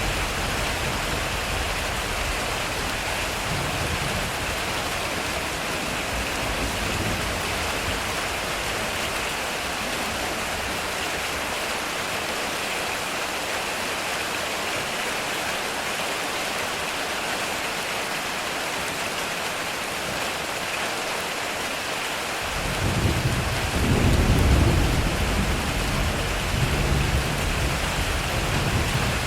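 Heavy rain falling steadily on a metal roof, with thunder: a low rumble dying away over the first several seconds, then a new roll of thunder coming in about three-quarters of the way through, loudest a couple of seconds later and rumbling on.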